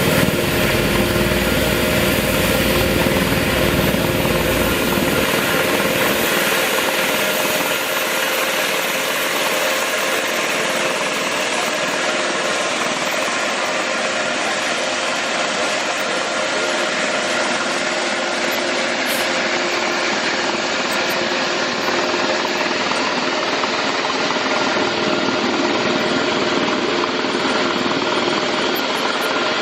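Helicopter's turbine engine running, a steady rushing noise with a constant whine; its low rumble drops away about five seconds in.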